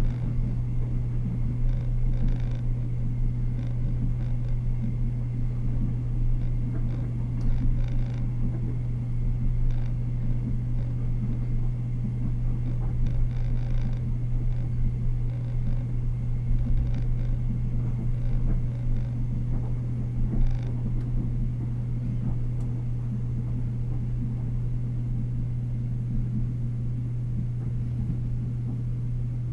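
Ride noise inside the cabin of a Taiwan Railways EMU100 electric multiple unit running along the line: a steady low hum under the rumble of wheels on rail, with scattered clicks and knocks.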